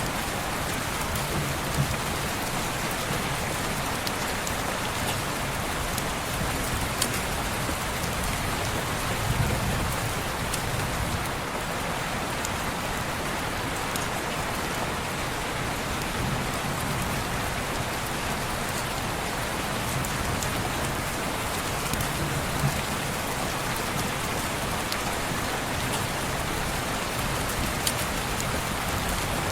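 Steady heavy rain falling on window glass, an even hiss. A few sharp crackles from a fireplace now and then.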